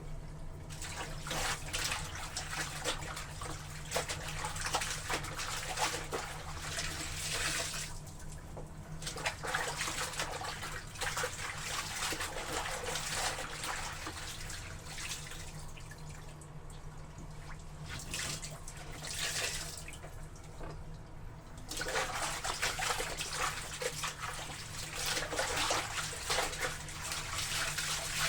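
Water sloshing and splashing in a tub as clothes are washed, in irregular bursts with a couple of quieter pauses.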